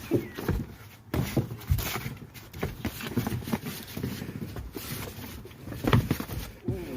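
Boxing gloves thudding on a body and feet shuffling during a sparring exchange: irregular dull thumps, several a second, with a few heavier hits about a second in and near the end.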